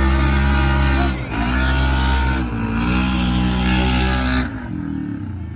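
Racing vehicle engine running hard at high revs, its pitch dipping briefly twice, then falling away as the throttle is lifted near the end.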